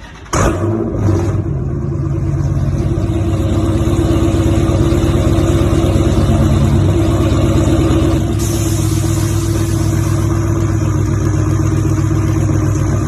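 Car engine running loud and steady, cutting in abruptly about half a second in.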